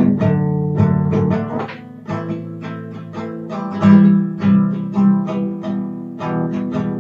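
Background music: acoustic guitar picking a run of plucked notes and chords.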